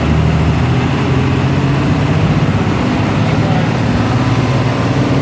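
A bus engine running steadily under a steady hiss of road noise, with no sudden events.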